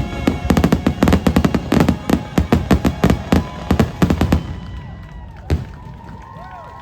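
Fireworks going off in a rapid barrage of sharp bangs and crackles over music, thinning out about four seconds in, with one more single bang a second or so later.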